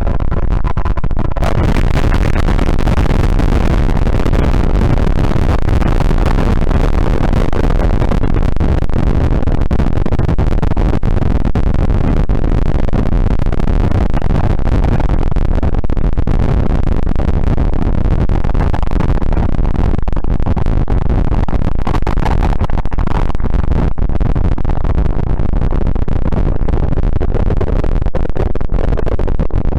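Loud, unbroken wall of harsh noise with a heavy low rumble, from an experimental noise-music composition; it thickens about a second in and then holds steady.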